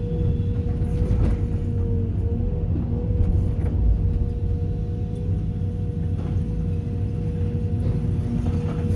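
Sumitomo SH210 excavator's diesel engine running under load with a steady whine over a deep rumble, loading broken concrete into a dump truck. A few scattered knocks come from debris.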